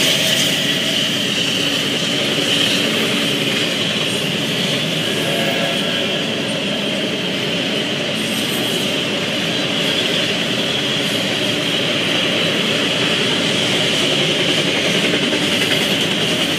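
Norfolk Southern double-stack intermodal freight train rolling past: steady noise of the cars' wheels running on the rails, with a high-pitched edge. Heard through a trackside webcam's microphone.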